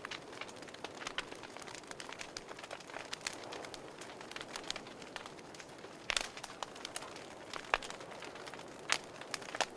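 Wood fire crackling in a fireplace: irregular sharp pops and snaps over a soft steady hiss of burning. The loudest pops come about six seconds in and again near the end.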